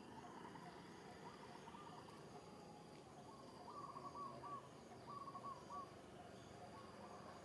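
Faint bird calls: short hooting notes in groups of three or four, over a faint high insect drone.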